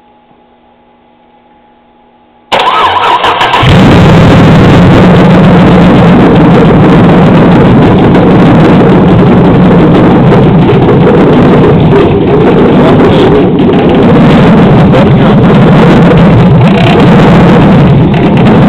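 A 2007 Chevrolet Silverado's 5.3-litre LH6 V8 cranks about two and a half seconds in, catches within a second and then runs loud and steady. It carries a knock that the owner takes for a lifter tick from a stuck displacement-on-demand (AFM) lifter, hoping it is not rod knock.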